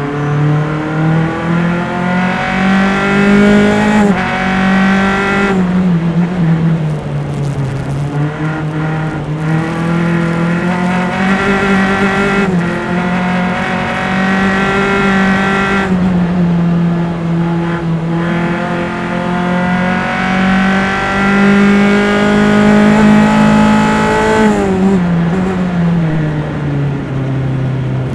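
Single-seater race car engine heard from on board, pulling hard through the rev range and stepping down in pitch at each upshift. About three seconds from the end, the pitch falls steeply as the car brakes and downshifts.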